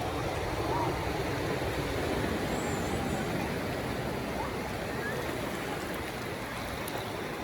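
Ocean surf washing on the beach, heard as a steady rushing noise.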